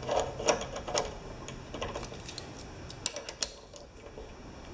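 Scattered light clicks and taps from hand tools and metal parts being handled, bunched in the first second and again about three seconds in.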